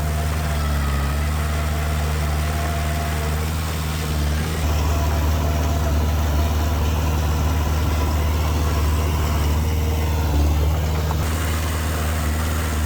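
Heavy-equipment diesel engine running steadily with a deep low hum. It gets a little louder about four and a half seconds in and eases back near the end.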